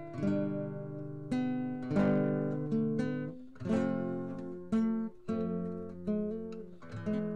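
Background music on acoustic guitar: strummed chords struck every second or so, each ringing out and fading.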